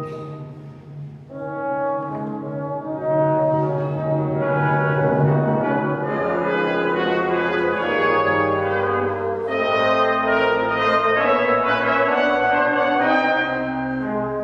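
Brass ensemble playing slow, sustained chords. The sound thins out about a second in, then the chords swell back and change every few seconds.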